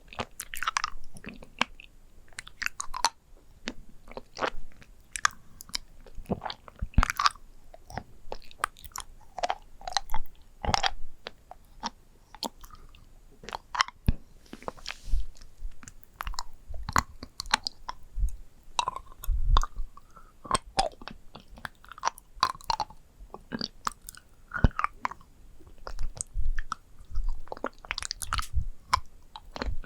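Close-miked ASMR object triggers: irregular tapping, clicking and crackling on objects, several sharp taps a second with occasional heavier thuds.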